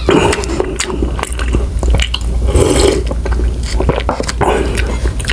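Close-miked chewing of a mouthful of food, with many short clicks and smacks of the mouth.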